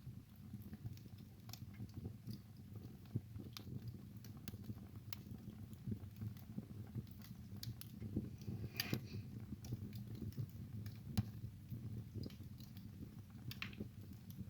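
Wood fire burning in a fireplace: irregular sharp crackles and pops from the burning logs over a steady low rumble of the flames, with a quick flurry of crackles about nine seconds in.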